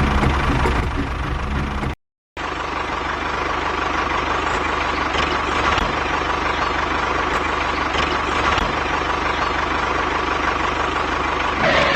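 A motor running steadily. It cuts out for a split second about two seconds in, then runs on evenly with a faint steady whine.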